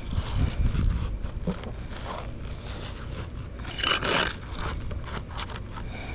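Scraping and crackling of asphalt roof shingles being worked with a tool as old roofing nails are pried up. There are scattered clicks, and one louder scrape about four seconds in.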